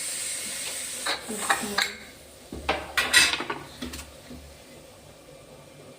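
Steam hissing out of a pressure cooker, dying away within the first two seconds, then several sharp metal clanks and clinks of pot and utensils, the loudest about three seconds in.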